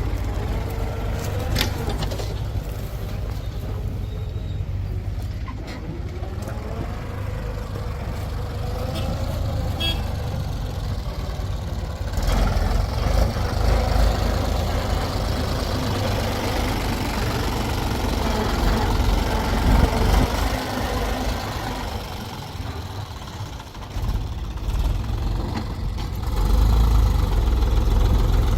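Heavy vehicle diesel engine running steadily, growing louder about twelve seconds in and again near the end.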